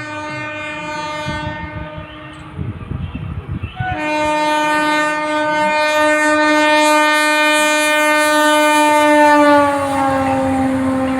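Local train's horn sounding long and steady, a single held note; it breaks off for about two seconds while wheel clatter comes through, then sounds again louder. Near the end its pitch drops as the train passes by.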